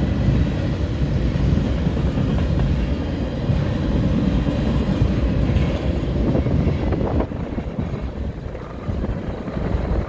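Freight train cars rolling past at close range: a steady low rumble of steel wheels on the rail, easing slightly about seven seconds in.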